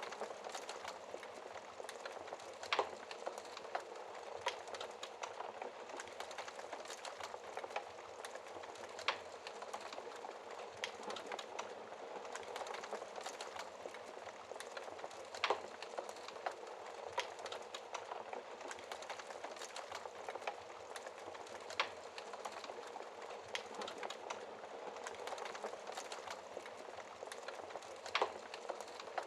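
Wood fire burning in a fireplace: a steady low hiss with frequent small crackles and a few louder pops every several seconds.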